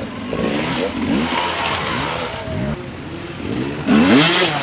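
Enduro dirt bike engine revved in short repeated throttle blips, the pitch rising and falling again and again, with a louder, harsher rev about four seconds in.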